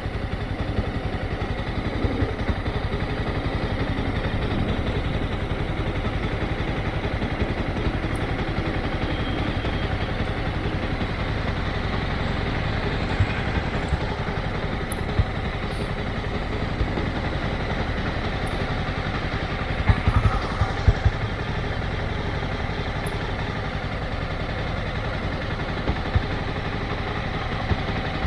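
Motorcycle engine running steadily, with a few short louder knocks about twenty seconds in.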